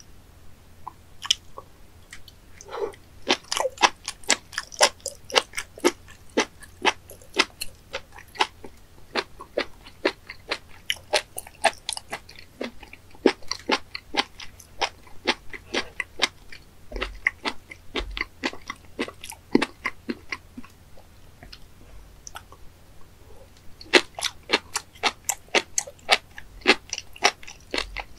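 Close-miked chewing of raw spoon worm (gaebul): a crisp, wet crunching, a few sharp chews a second, with a pause of a few seconds about three-quarters of the way through.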